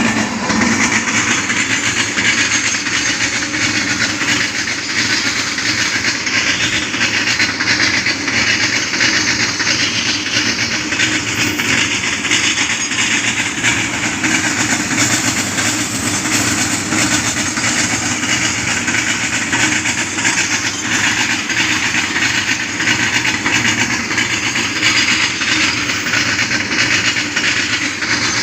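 Freight train hauled by a WAG-9 electric locomotive passing close at full speed: a loud, steady rush of wagon wheels rattling over the rails.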